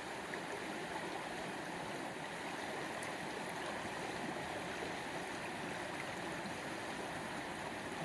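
Wild upland stream running: a steady, even wash of moving water.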